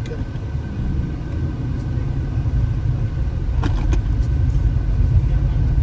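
A car driving, heard from inside: a steady low rumble of engine and tyre noise that grows a little louder toward the end, with a couple of light clicks a little past the middle.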